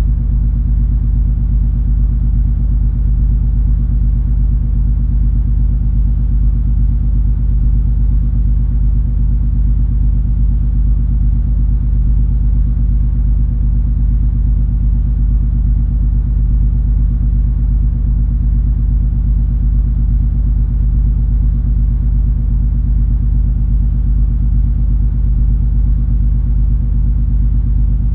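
The cruise ferry MS Color Magic under way: a steady low engine drone with a few held hum tones, unchanging throughout.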